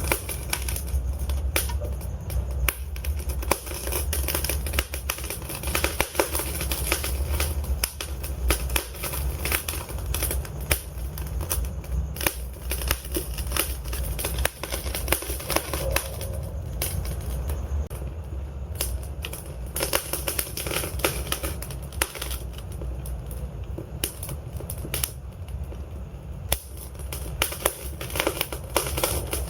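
Burning logs in a fireplace crackling and popping: many irregular sharp snaps over a steady low rumble of the flames.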